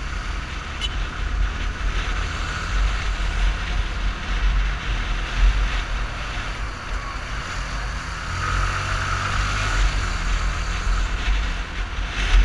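Yamaha Fazer 250's single-cylinder four-stroke engine running on the move, with wind rushing over the microphone; the engine note grows stronger about eight seconds in.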